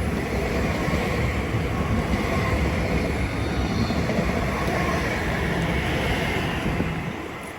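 TransPennine Express Class 397 electric multiple unit running through the station: a steady rumble of wheels on rail with a faint whine, dropping away near the end.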